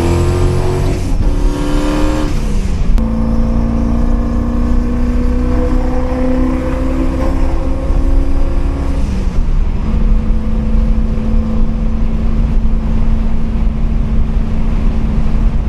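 Turbocharged 5.0 Coyote V8 of a 2015 Mustang under way through a T56 six-speed manual. The engine note climbs and drops twice in quick succession in the first few seconds, as in fast upshifts. It then holds nearly level, falls again about nine seconds in, and runs at a steady cruise.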